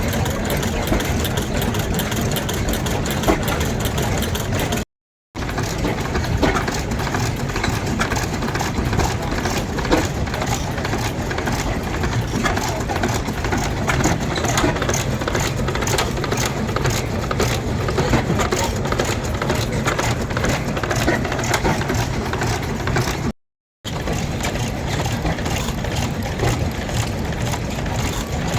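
Engine running steadily, with a dense, rapid clatter of ticks over a low hum. The sound drops out completely twice for a moment.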